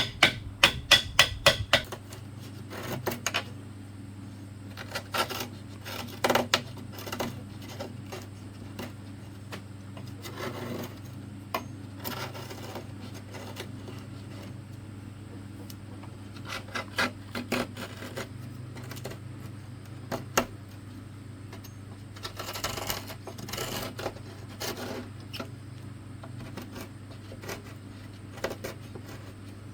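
A quick run of hammer blows for the first two seconds, then scattered knocks, taps and rubbing of bamboo being worked by hand, over a steady low hum.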